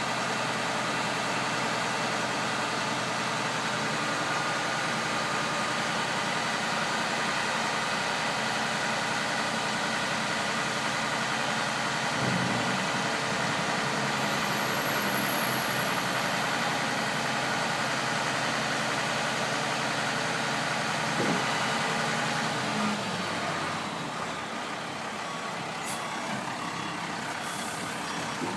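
International DT466 diesel engine of a 1993 International 4900 dump truck running steadily, its level easing off slightly about three-quarters of the way through.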